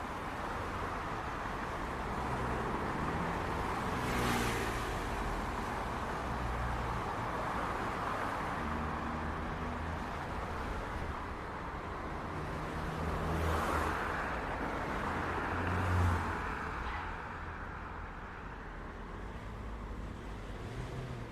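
City street traffic: a steady wash of road noise and engine hum. Cars pass by about four seconds in, again around thirteen to fourteen seconds, and once more at about sixteen seconds.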